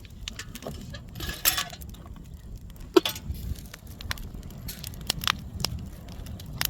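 Wood bonfire crackling, with scattered sharp clicks and a loud knock about three seconds in.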